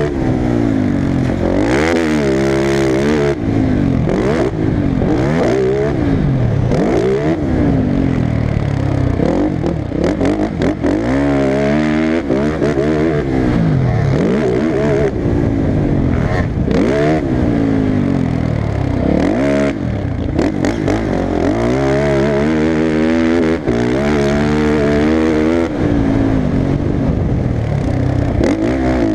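Motocross bike engine revving hard, its pitch climbing and dropping again every second or two as the throttle is worked and gears change.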